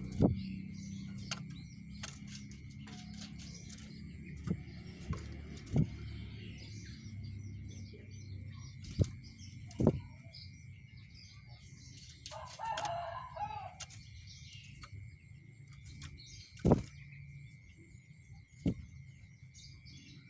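Rengganis songbird calling in short, scattered chirps, with several sharp knocks and a lower call lasting about a second, around twelve seconds in.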